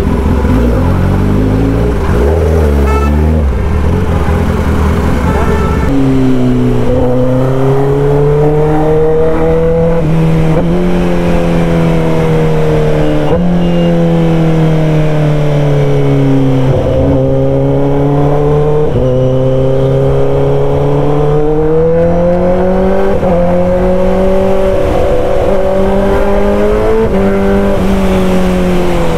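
Kawasaki ZX-10R's inline-four running loud through an SC-Project exhaust as the bike is ridden along. The engine note is rough and low for the first few seconds, then holds at a higher, fairly steady pitch that rises and falls gently with the throttle.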